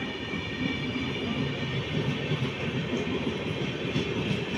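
Rajdhani Express passenger coaches running past on the track: a steady rumble of wheels on rail with irregular clanks and rattles, a little louder in the second half.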